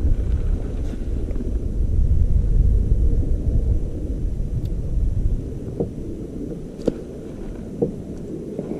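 Wind buffeting the microphone as a low, uneven rumble, with three light knocks in the second half.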